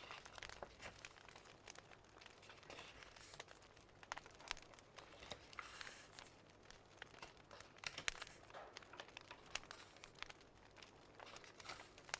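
Wood fire crackling faintly, with irregular sharp pops and snaps and a soft hiss.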